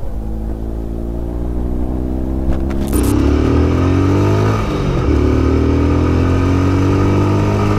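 Motorcycle engine heard from on board. It runs steadily, then revs up and louder from about three seconds in, drops briefly near five seconds as it shifts gear, and pulls up again.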